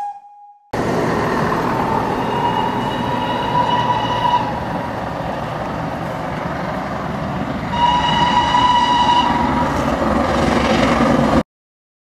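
GWR Hall-class steam locomotive 4936 Kinlet Hall running with a train, its chuffing exhaust and rolling noise steady throughout. Its whistle blows twice over it, first for about three seconds, then a shorter blast of about a second and a half. The sound cuts off suddenly near the end.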